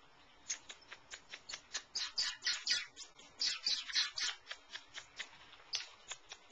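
Cockatiel chattering softly: a quick run of short, scratchy clicks and chirps starting about half a second in, thickest in the middle and thinning out near the end.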